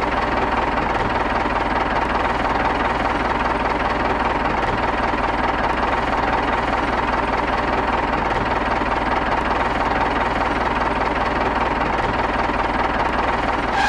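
Steady tractor-style engine sound running evenly at a constant pace, with a faint steady whine above the low running note, for a miniature toy tractor hauling a loaded trolley.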